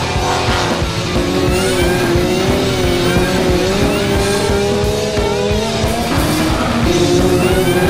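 Music laid over drifting car sound, with an engine running hard and tyres squealing in long wavering tones.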